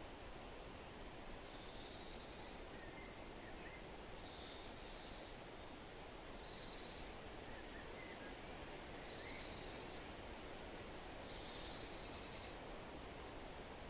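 A wild bird repeats a short, high trilled call about five times, one every two to three seconds, with a few faint lower chirps between. Under it runs a steady, quiet hiss of wind and water.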